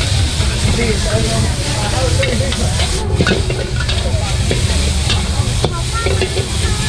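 Food sizzling and frying at a street-food stall, with stirring or scraping clicks, over a steady low rumble.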